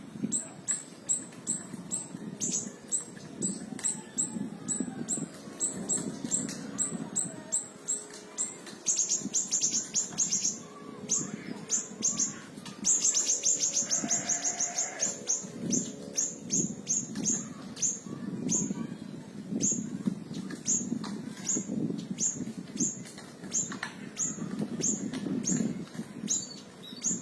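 Small siri-siri songbird giving rapid bursts of high, sharp chips, a few a second. It breaks into two faster trilled runs, at about nine and thirteen seconds in. This is the rapid-fire 'tembakan' call used to train other songbirds.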